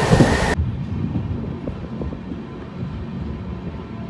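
Passenger train running on the track, heard from on board: a loud rushing noise that cuts off abruptly about half a second in, leaving a low rumble with faint clicks.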